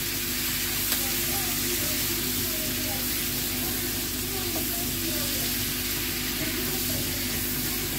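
Chicken gizzards and liver sizzling steadily as they fry in hot oil in a pan, with the light scrape of a silicone spatula stirring them.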